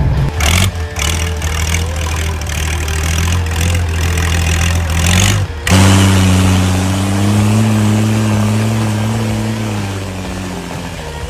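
A heavy vehicle's engine running steadily. About six seconds in, the sound cuts abruptly to another engine whose pitch rises a little, holds, and then drops away near the end.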